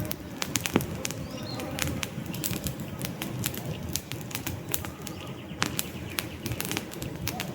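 Wood campfire crackling and popping, dense irregular sharp pops over a low rush of burning flames, with a few faint bird chirps in the background.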